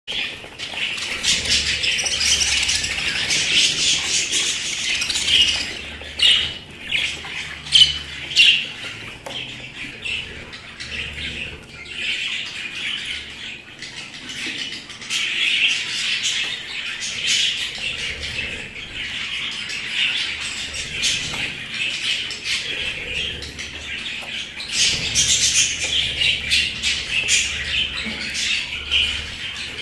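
Budgerigars chattering and chirping without pause, with a few sharper, louder calls a quarter of the way in and the chatter swelling again near the end.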